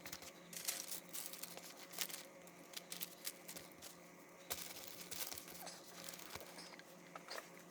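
Faint rustling and crinkling of paper being handled, with scattered small clicks and taps.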